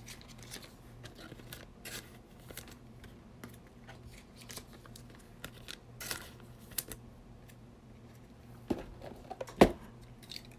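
Trading cards and foil pack wrappers being handled: faint scattered clicks and rustles, with a few louder crackles in the last two seconds.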